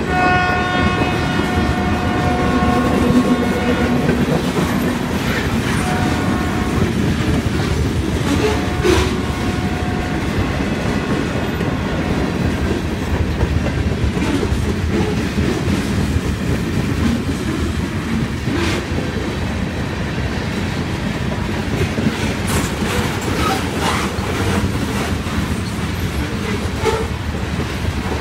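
Freight train cars rolling past with wheels clicking over the rail joints, a steady rumble and a few sharp clanks. A train horn sounds through the first few seconds and briefly twice more.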